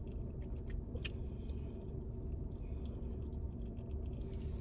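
Steady low rumble with a few faint clicks and ticks, the clearest about a second in.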